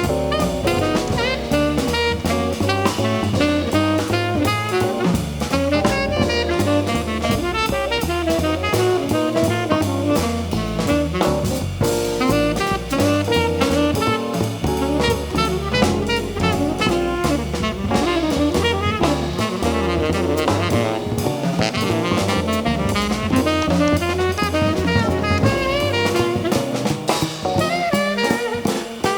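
Live jazz band playing, a horn carrying the melody over a drum kit.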